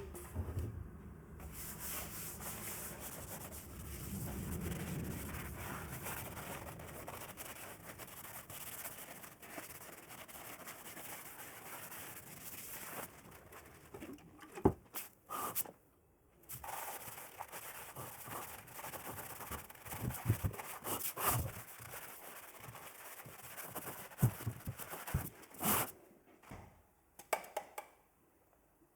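Steady hand rubbing or abrading on a workpiece, with a short pause about halfway through and several sharp knocks, stopping just before the end.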